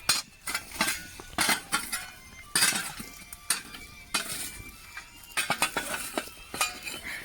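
Stones being taken out of a campfire, knocking and clinking against each other in irregular sharp strikes.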